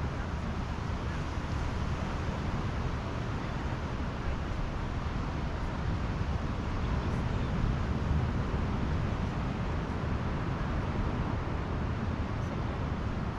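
Pacific surf washing onto the beach: a steady low rumble of waves that swells a little about eight seconds in.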